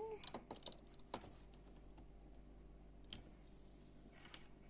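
Faint, scattered clicks of small plastic Lego bricks being handled and pressed together, a handful of separate ticks spread over a few seconds.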